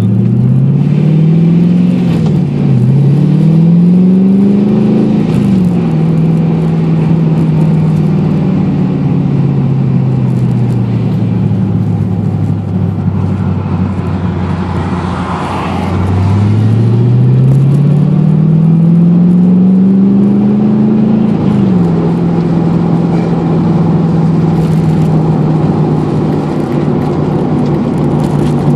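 LS1 V8 in a 1993 Mazda RX-7, heard from inside the cabin, accelerating hard with two quick upshifts through the six-speed in the first five seconds. The engine then holds before its revs slowly sink over about ten seconds. It pulls up again with another upshift a little past twenty seconds and settles at a steady note.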